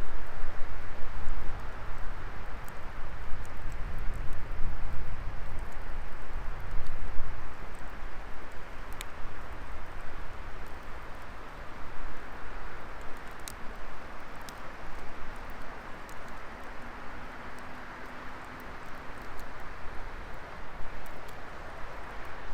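Wood fire burning: a steady hiss with scattered sharp crackles and pops, a few louder ones a little past the middle, over a low rumble that is strongest in the first several seconds.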